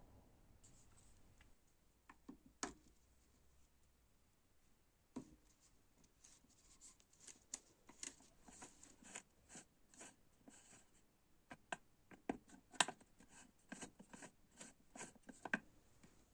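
Faint scattered clicks, taps and light scrapes of small hard objects being handled. They are sparse at first and come thick and fast from about six seconds in, with one sharper click near the end.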